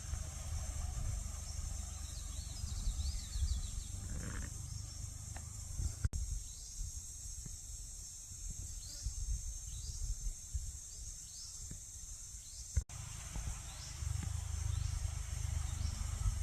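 Outdoor ambience: wind rumbling on the microphone under a steady high hiss, with repeated short falling chirps. The sound cuts out abruptly twice, at edits.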